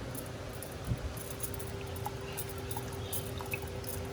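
Steady low kitchen hum with a constant faint tone, with a few scattered light clicks and taps of cooking utensils and containers.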